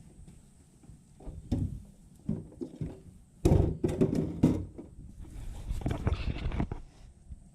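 Handling noises: a few irregular knocks and thumps, loudest around the middle, then a brief rustling scrape near the end.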